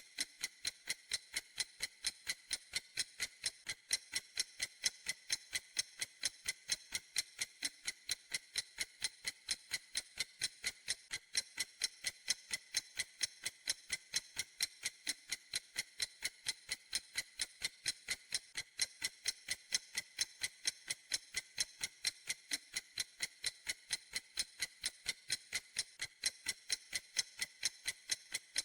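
Clock ticking steadily, with short, even, evenly spaced high clicks and no change in pace.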